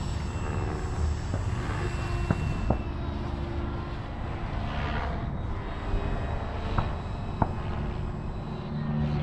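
Model jet's electric ducted fan whining: steady high tones over a rushing, rumbling noise, with a few sharp clicks.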